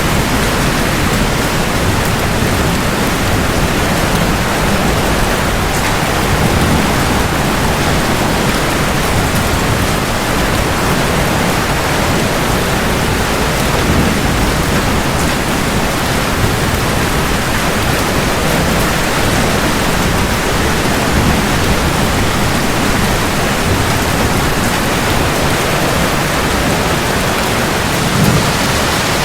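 Steady rain falling hard, an even dense hiss, with a low rumble swelling and fading underneath.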